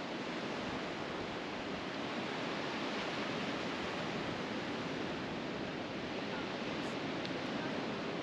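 Pacific Ocean surf washing onto the beach, a steady rushing noise that swells a little.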